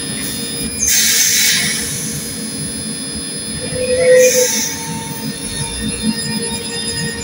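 TransPennine Express multiple unit moving slowly through the station: a low rumble of wheels on rail under a thin, steady high whine. Two hisses come about one second and four seconds in, and a short squeal comes about four seconds in.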